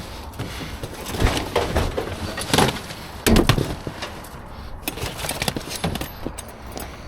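Scrap metal clanking and rattling as pieces are handled and tossed. A string of sharp knocks, with the loudest hits about a second and a half in and around three to three and a half seconds in.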